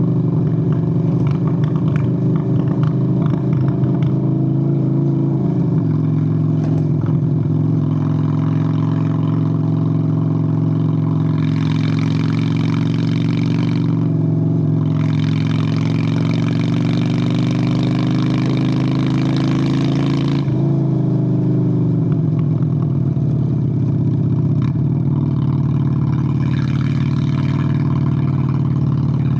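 1997 Honda Shadow VLX 600 V-twin engine running under way on the road, its note steady with a drop in pitch about five seconds in and another change about two-thirds of the way through. Stretches of rushing noise rise over it a few times.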